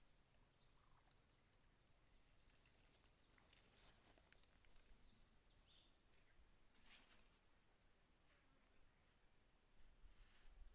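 Near silence outdoors with a faint, steady, high-pitched insect drone pulsing evenly. There are a few faint clicks and swishes about four and seven seconds in.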